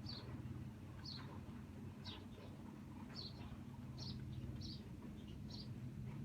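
A bird chirping over and over in short high notes, about one a second, over a steady low hum.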